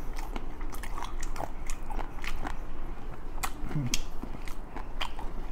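Chewing a crisp tostada: irregular crunches and wet mouth clicks.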